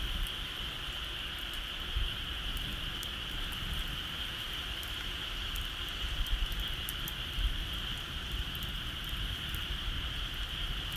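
Bonfire crackling, with scattered small sharp pops, over a steady high-pitched buzz and a low rumble.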